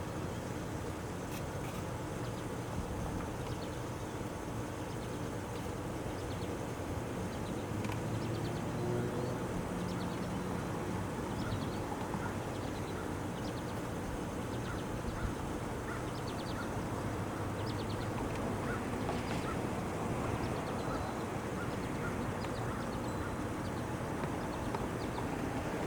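Short, high bird calls repeated here and there over a steady low rumble.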